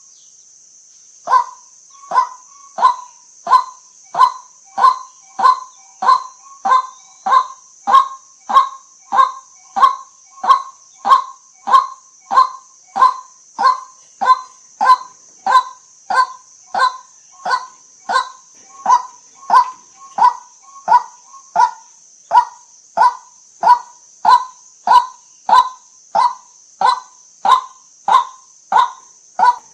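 White-breasted waterhen calling: a monotonous 'kwak' repeated evenly about one and a half times a second, with a short pause near the start and another about two-thirds of the way through. A steady high hiss runs underneath.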